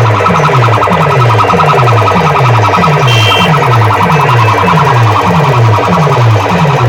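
Loud DJ sound-system speakers playing a siren-like electronic effect: a falling bass sweep repeating about two and a half times a second, with a steady higher tone over it.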